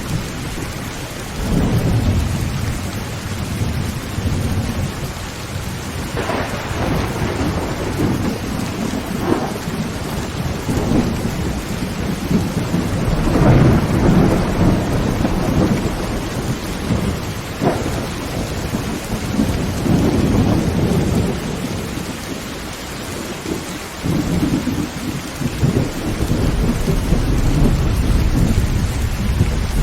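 Heavy rain falling steadily on a tin tent roof, with thunder rumbling in repeated swells and a few sharper cracks along the way.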